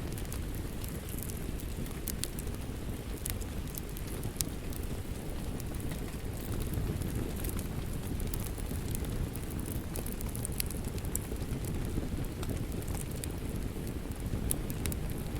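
Steady rain with a crackling wood fire: a constant low rushing with sharp crackles and pops scattered throughout.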